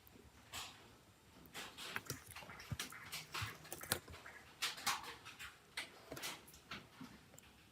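Irregular light clicks, taps and short scrapes of small tools and phone parts being handled, with a few sharper clicks about two, four and five seconds in.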